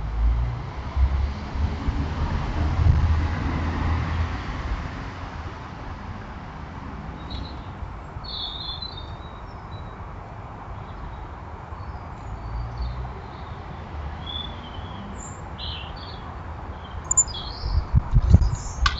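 Small garden birds chirping in short, scattered high notes over a steady low background rumble, with louder low thumps near the end.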